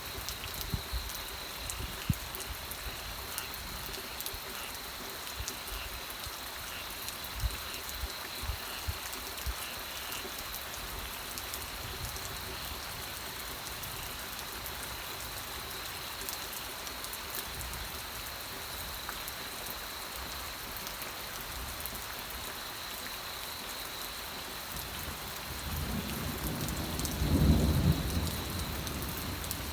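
Steady rain falling, with scattered individual drops ticking, and a low rumble of thunder swelling near the end.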